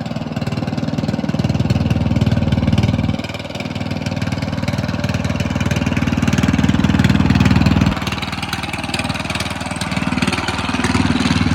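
A small engine running at a steady, fast putter, growing louder twice and dropping back each time, around three seconds in and again around eight seconds in.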